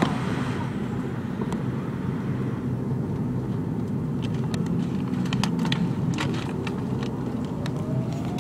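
Steady low rumble inside the rear cabin of a McDonnell Douglas MD-83 airliner, with a scatter of short clicks and knocks in the middle. Near the end a thin whine begins, rising slowly in pitch.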